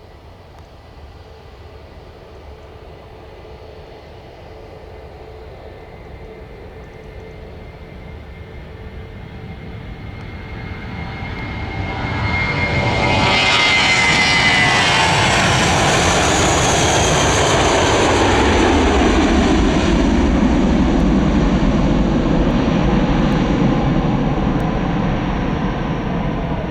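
Airbus A319 jet engines at takeoff power, growing steadily louder for about twelve seconds as the airliner comes down the runway. It then passes close with a falling whine, and loud jet noise carries on, easing a little near the end.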